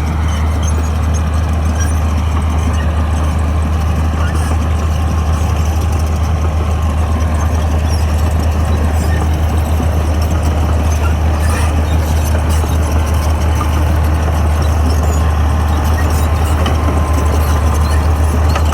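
Bulldozer's diesel engine running steadily with a deep constant drone, with faint scattered squeaks and clicks above it.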